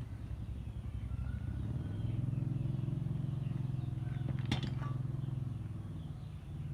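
A small engine running at a steady idle, its low hum growing louder about two seconds in and easing off near the end, with one sharp click about four and a half seconds in.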